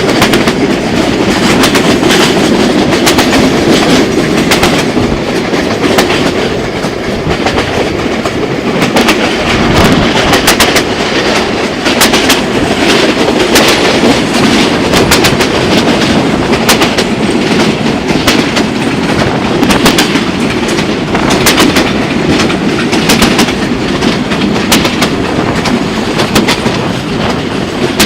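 Passenger train running along the line, its wheels clattering over the rail joints: a steady rumble crossed by a constant, irregular run of sharp clicks.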